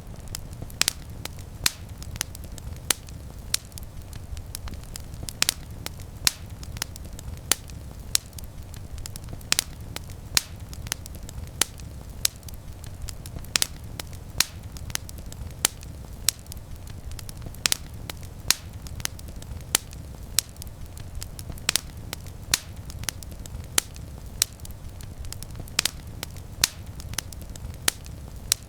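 Small wood campfire crackling, with frequent sharp pops at irregular intervals over a steady low rumble.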